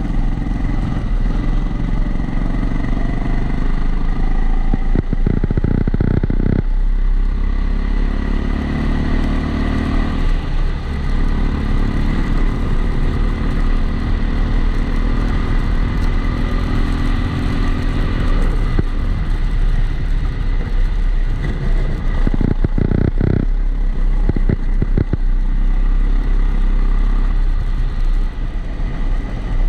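Kombikart Eco kart's engine heard onboard, its pitch rising and falling as it accelerates and slows through corners, sounding boxed-in through a waterproof camera housing. A steady thin whine runs underneath, and there are two short rattly stretches, around five seconds in and again near twenty-three seconds.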